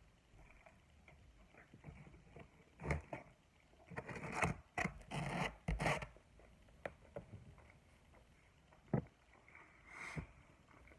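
Close-miked eating and food-handling sounds from a cheeseburger plate: scattered clicks and scrapes, with a busy run of rustling scrapes in the middle and a sharp click near the end.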